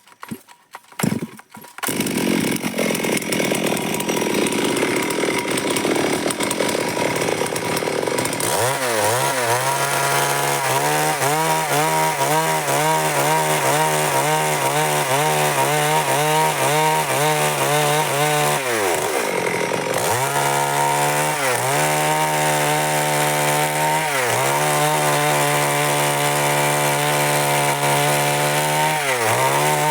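Stihl MS382 two-stroke chainsaw running at high revs while cutting wood. After a few short sharp sounds at the start, its pitch wavers under load and dips sharply several times, most deeply a little past halfway.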